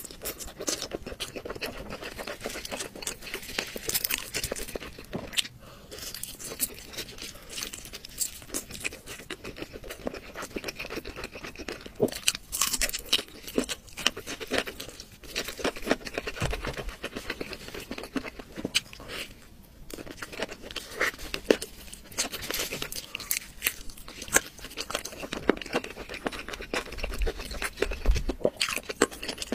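Close-miked eating: chewing and crunching of crisp food, with irregular crackly bites and tearing all through.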